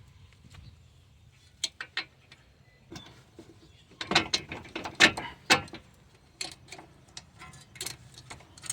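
Metal parts clinking and knocking as a hub assembly is worked by hand onto a CV axle and lined up with the strut bolts. There are a few scattered sharp knocks, with a quick cluster of louder ones around the middle.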